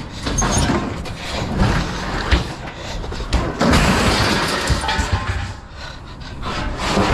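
Knocks and rough scraping of scrap metal being handled, louder for a stretch in the middle.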